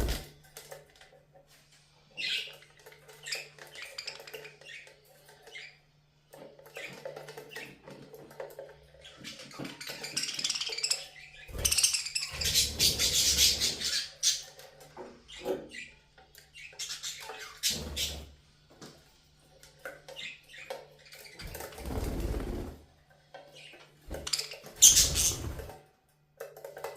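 Budgerigars chirping and chattering, with bursts of water splashing and fluttering as they bathe.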